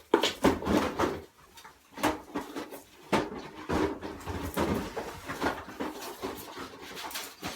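Cardboard box rustling, knocking and scraping in irregular bursts as an African crested porcupine forages in it for the apples inside.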